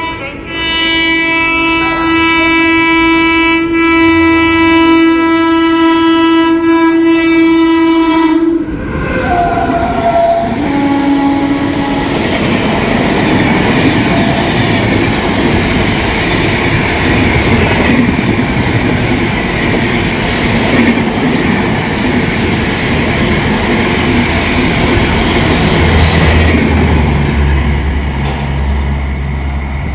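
Indian Railways WAP-4 electric locomotive sounding its horn in one long, steady blast of about eight seconds, followed by a couple of short horn notes. The train then passes at speed: LHB coaches clattering over the rail joints with a steady rumble, which turns deeper near the end.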